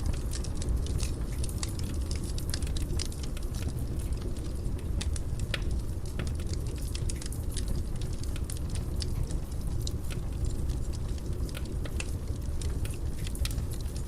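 Fire burning in a fireplace: a steady low rumble of flames with dense, irregular crackles and small pops.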